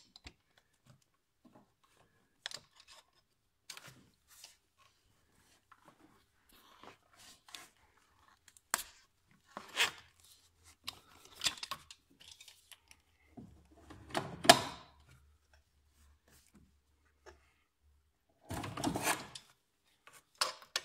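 Irregular clicks, knocks and short scraping and rustling noises of hand tools and parts being handled during engine repair work. There is a louder sharp scrape about two-thirds of the way through and a longer rustling burst near the end.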